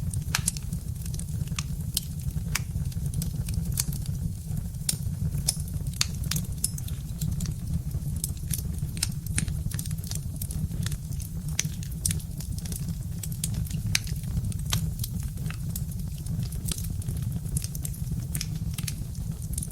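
Birch-wood log fire crackling: irregular sharp pops and snaps, several a second, over a steady low rumble.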